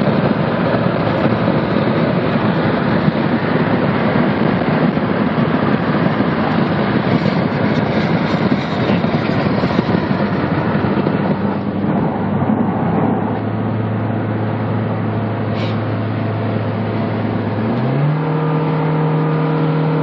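Car driving at speed, heard from inside: steady road and wind rush, joined about halfway by a low, even engine drone that steps up to a higher pitch near the end.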